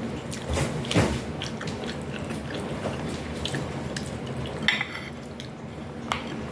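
Utensils clinking and tapping against plates and bowls while eating, with many small scattered clicks, a firmer knock about a second in and a brighter ringing clink near five seconds in.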